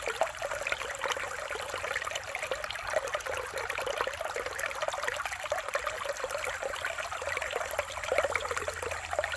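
Mountain stream burbling and trickling over rocks: a steady run of small splashes and gurgles.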